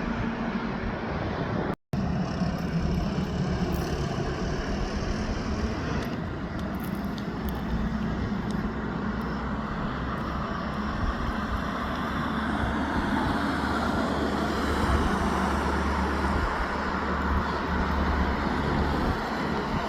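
Heavy trucks driving on the road: a steady low engine drone with road noise. The sound cuts out completely for a split second about two seconds in.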